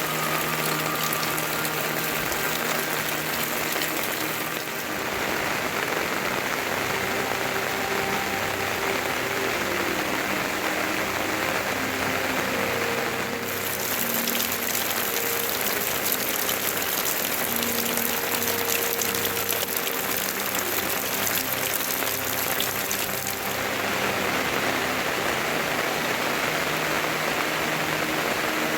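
Steady rain falling, a constant hiss whose character shifts abruptly a few times, about 5, 13 and 23 seconds in.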